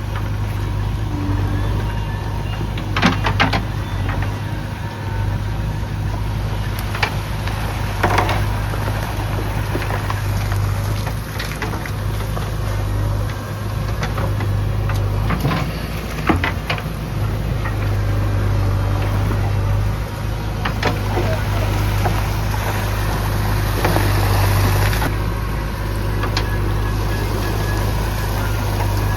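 Heavy machinery engine running steadily, with a constant low hum. Several short sharp knocks or clanks break in at scattered moments.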